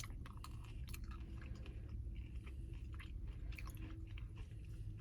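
A person chewing a mouthful of ice cream with crunchy chocolate and graham cracker pieces, with irregular small crunches and wet mouth clicks over a steady low background hum.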